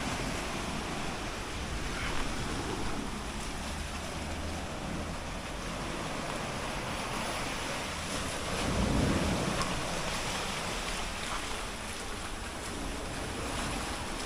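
Steady wash of sea surf mixed with wind buffeting the microphone, with a louder low swell about nine seconds in.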